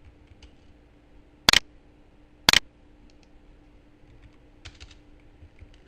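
Two loud, sharp computer clicks about a second apart, then a few faint quick clicks near the end, over a faint steady hum.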